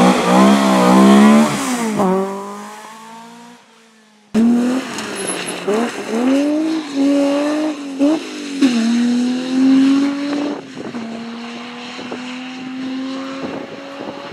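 Rally car engine revving hard with rapid up-and-down throttle changes, then fading away. After an abrupt cut, another rally car accelerates through its gears with repeated throttle lifts and pulls away, its engine note fading.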